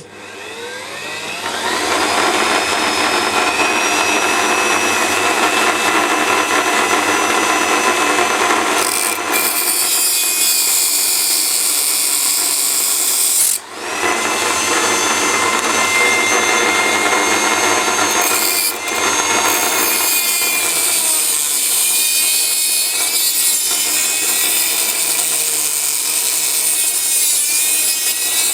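Dremel rotary tool on a flexible-shaft extension starting up, its whine rising over the first couple of seconds, then running steadily as it grinds through the metal rails of N gauge flex track. The sound dips briefly about halfway through.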